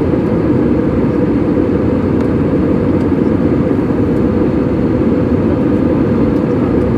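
Airliner cabin noise in flight: a steady low roar of engines and airflow heard from inside the passenger cabin.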